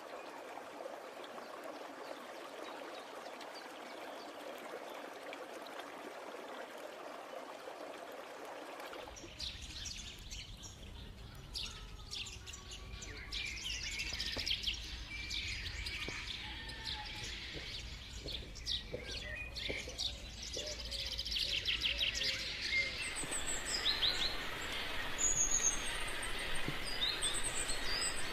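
A steady hiss, then from about nine seconds in a chorus of forest birds chirping and calling over a low rumble. The calls grow busier and louder, with high whistles near the end.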